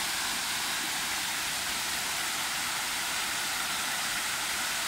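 Steady rush of a large man-made waterfall cascading down rocks into a pool and on into lower pools.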